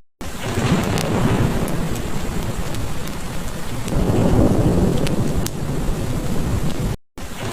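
Heavy rain falling steadily, with low thunder rumbling in two swells, the second a few seconds in, and small scattered pops from a crackling fireplace. The sound cuts out for a split second just after the start and again near the end.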